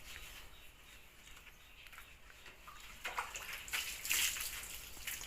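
Water splashing during a dog's bath: a few short splashes in the second half after a quieter stretch.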